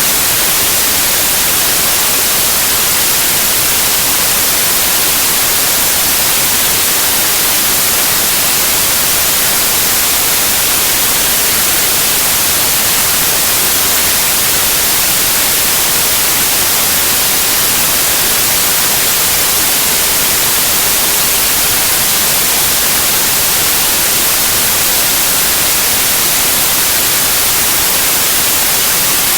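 Steady white noise: an even, bright hiss that stays the same throughout, with no change or break.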